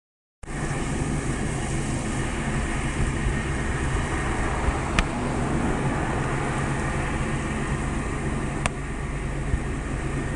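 Steady low outdoor rumble, with two short clicks, one about halfway through and one near the end.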